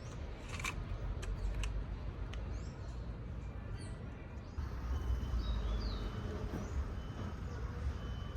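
Outdoor background: a steady low rumble with a few light clicks at the start and several faint bird-like chirps in the middle.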